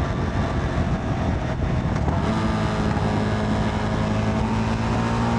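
CFMoto 300NK's single-cylinder engine running at road speed with wind rush, heard from the rider's seat; the engine note settles to a steady pitch about two seconds in.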